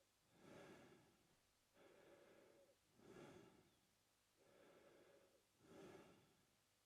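A man breathing slowly through his mouth in a steady rhythm. Three short, sharper breaths come about every two and a half seconds, each followed by a longer, softer one.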